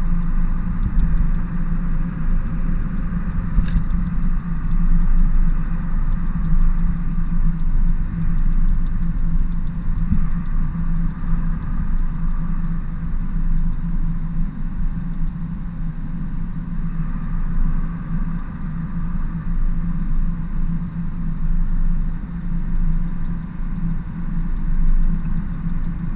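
Ford F-350 work truck driving, heard from inside the cab: a steady low engine and road rumble.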